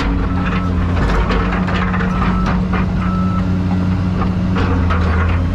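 Heavy diesel engine of an excavator running steadily, with short knocks and rattles, while a backup alarm beeps about once a second and stops after three or four seconds.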